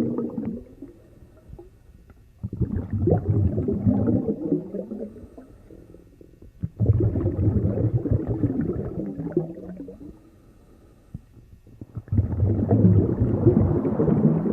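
Underwater recording of rumbling, gurgling water noise that swells and fades in repeated surges about every four to five seconds.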